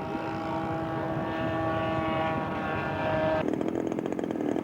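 Radio-controlled scale model aircraft engine droning at a steady pitch and slowly growing louder. About three and a half seconds in, the sound changes abruptly to a rougher, rapidly pulsing engine note.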